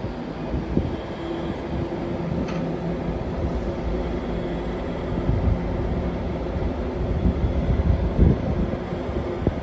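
A pair of Class 90 electric locomotives running coupled as a light engine: a steady low rumble with a continuous hum.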